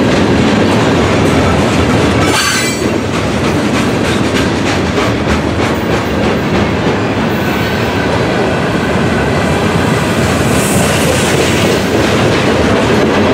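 Freight cars of a Norfolk Southern mixed freight train rolling past close by: a steady loud rumble of steel wheels on rail, with clickety-clack over the rail joints. A brief high wheel squeal comes about two seconds in, and another near the end.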